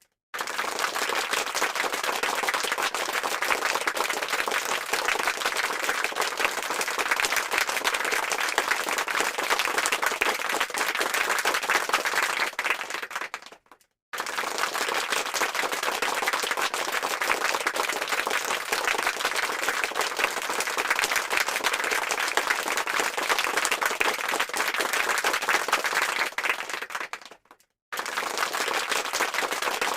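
Recorded crowd applause: many hands clapping densely. It fades and cuts out briefly about halfway through and again near the end, then resumes.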